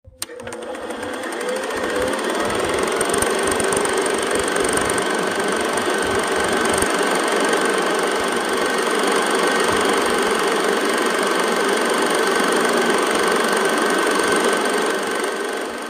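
Film projector running: a steady, rapid mechanical clatter and whir that starts abruptly and fades out near the end.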